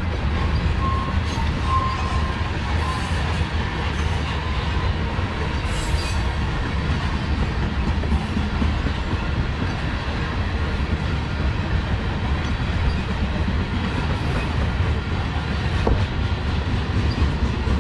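BNSF coal train's loaded coal cars rolling past close by while picking up speed: a steady low rumble of steel wheels on the rails, with a faint high wheel squeal in the first couple of seconds.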